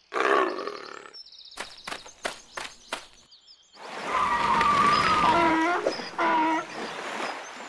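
Cartoon sound effects: a short animal sound at the start, then about five sharp taps like footsteps. From about four seconds in comes steady outdoor ambience with a hiss of water under a broken animal call.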